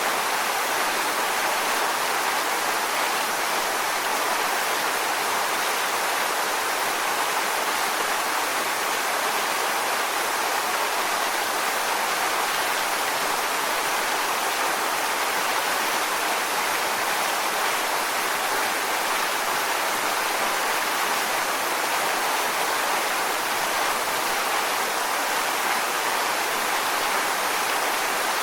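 Waterfall: water falling steadily onto rocks, an even hiss with little low rumble.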